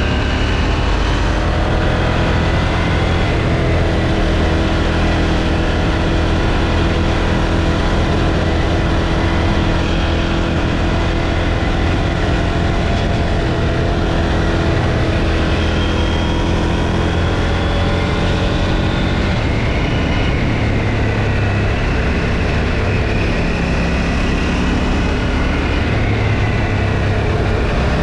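KTM 790 Duke's parallel-twin engine running on its stock exhaust while the bike is ridden. The pitch climbs in the first few seconds and changes again about two-thirds of the way through as the throttle varies.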